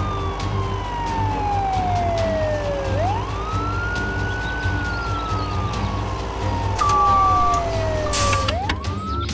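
A siren wailing in slow sweeps: each rises quickly, then falls slowly over about three seconds, twice in a row, over a steady low hum. Two short steady beeps sound near the end.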